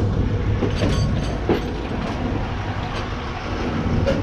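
Passenger train running, heard from inside the carriage: a steady low rumble with scattered, irregular clacks and knocks.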